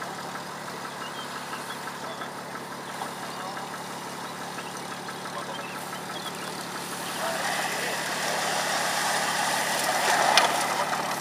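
A 4x4's engine running with an even, pulsing note, growing louder from about seven seconds in. There is one sharp knock near the end.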